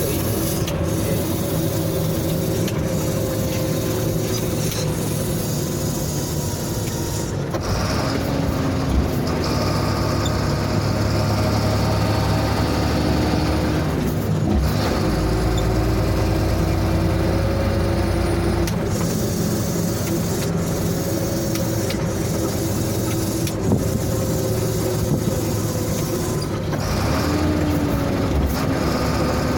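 Sinotruk Howo truck's diesel engine running under way, its note changing pitch several times as the driver shifts through the gears, with a rising note near the end.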